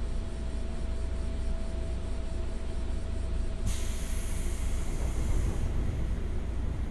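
Inside a JR 201 series electric commuter train car running on the rails: a steady low rumble with a faint steady whine that fades out about halfway through. About four seconds in comes a burst of hiss that lasts about two seconds.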